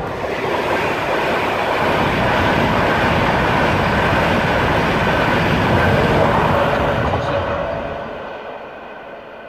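Class 91-hauled InterCity 225 electric express passing close beneath at high line speed: a dense rush of wheel, rail and air noise builds within the first second and holds loud. It fades away from about seven seconds in as the train recedes.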